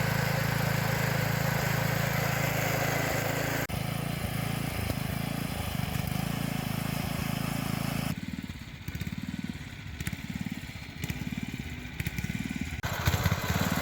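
Small gasoline engine running, with abrupt changes about four and eight seconds in. In the last part the note is lumpy and pulsing before it turns steady again.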